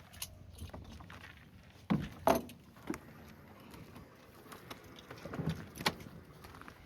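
Scattered knocks, clicks and rattles of someone climbing into a light aircraft's cockpit, with two sharp knocks about two seconds in and another near the end.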